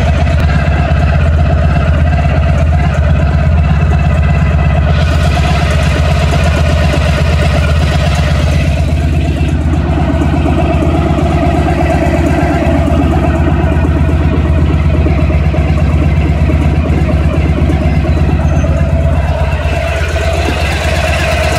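1991 Honda ST1100's V4 engine idling steadily, with a rattling noise coming from up front near the engine whose cause the owner does not know.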